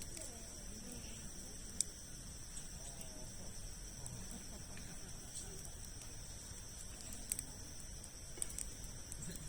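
Wood campfire crackling with a few sharp pops, over a steady high-pitched drone of insects; faint distant voices underneath.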